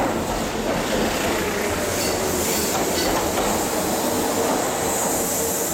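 Kintetsu 21000 series Urban Liner Plus limited express train departing, its cars running past close by with steady wheel and running noise as it pulls out of the platform.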